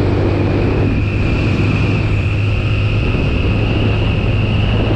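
TVS Apache RTR 160's single-cylinder four-stroke engine running at a steady pace while the motorcycle is ridden, a constant low hum with a faint higher whine over it.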